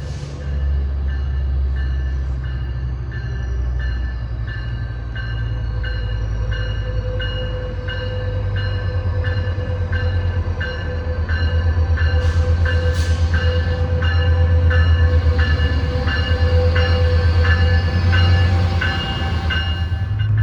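Diesel train running past with a heavy low engine rumble that grows louder about halfway through. A bell rings steadily over it, a little more than once a second.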